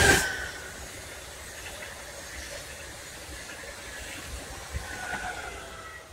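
High-speed electric passenger train passing at speed: a loud rush with a falling whine at the start, a steady rushing of the cars going by, then a second falling whine near the end as the rear power car passes.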